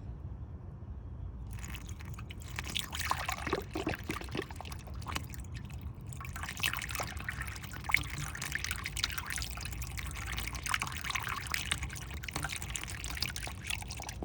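Distilled water being poured into the radiator of a 2013 Nissan Maxima to flush the cooling system. It starts about a second and a half in and keeps on as a steady pour.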